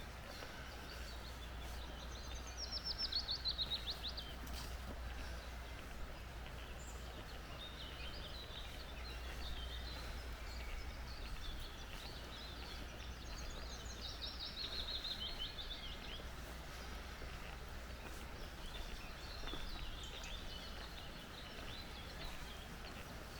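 Forest birds singing: twice a bird gives a loud, rapid run of falling notes, with softer chirping from other birds in between, over a steady low rumble.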